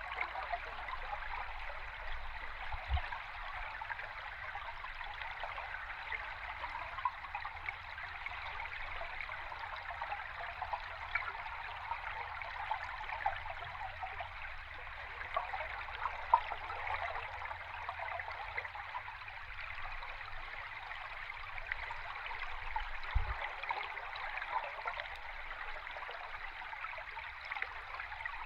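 River stream water heard from underwater: a steady rushing hiss with fine bubbling crackle. Two soft low thumps come through, about three seconds in and again later.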